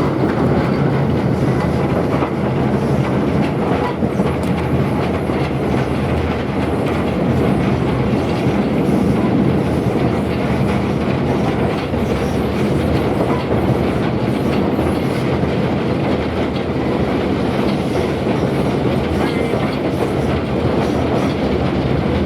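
A train running along the track: steady, loud wheel-on-rail running noise throughout.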